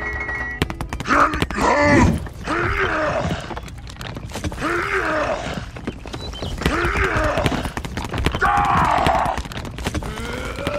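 A man's voice groaning and grunting with effort, about five strained groans each under a second long, spaced a second or two apart.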